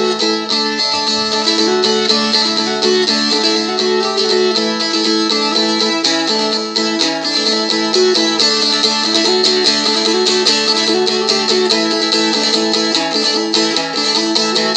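Seagull Merlin strumstick, a four-string dulcimer-style instrument, strummed briskly. A simple folk melody steps over a steady drone note, with chords of D and A behind it.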